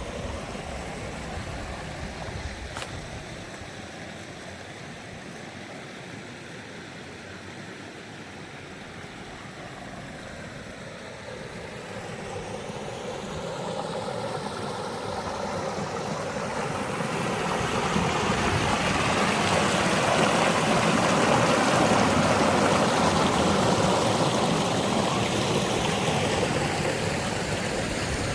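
Valley stream rushing, a steady wash of water noise that grows louder from about halfway through.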